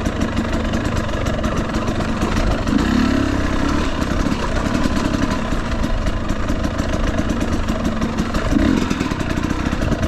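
Husqvarna TE250i's two-stroke single-cylinder engine running at low revs, close to idle, picking up briefly about three seconds in and again near the end.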